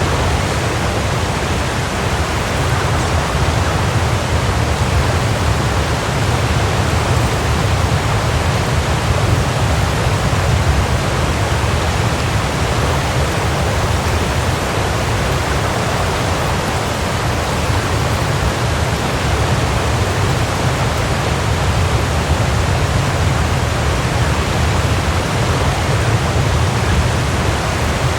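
Waterfall: water falling and splashing steadily, a continuous rushing noise with a deep low rumble.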